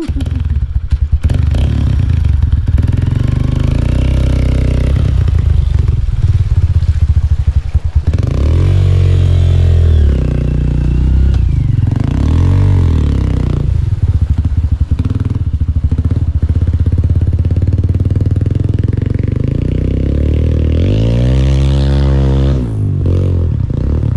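Off-road motorbike engine revving hard under load, its pitch rising and falling several times as the rider works it up through rocks in a river, with some clattering.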